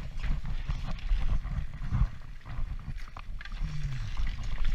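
Transition Patrol mountain bike clattering over rough ground at speed: many small knocks and rattles over a low rumble.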